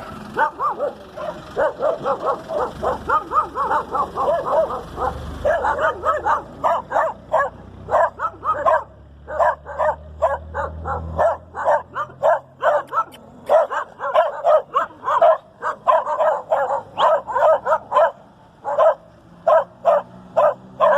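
Dog barking in quick, high yips, two or three a second, on and off throughout with short pauses.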